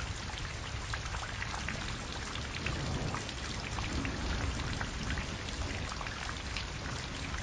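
Steady rain falling, with many separate drops heard as scattered small ticks over a constant hiss.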